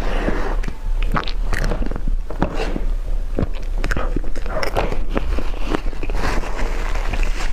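Close-miked eating: crunchy bites and chewing, with many irregular crisp cracks.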